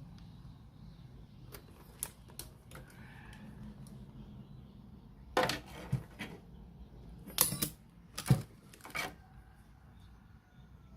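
Irregular clicks and clatter of small hard objects being handled, with a few faint clicks about two seconds in and louder knocks in clusters from about five to nine seconds in.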